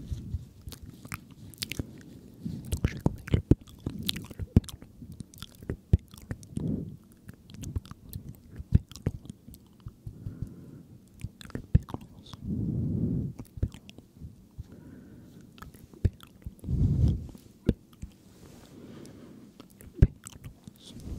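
Close-miked ASMR mouth sounds: many wet clicks and smacks at an uneven pace, with two longer low murmurs, one past the middle and one near the end.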